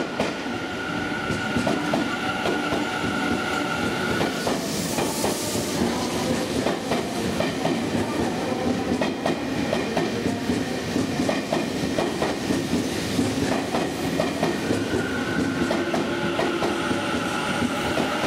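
Tobu 50070 series electric train running slowly past on arrival: a run of clicks as the wheels pass over rail joints, under a steady electric whine that fades about four seconds in and returns near the end. A brief hiss comes about five seconds in.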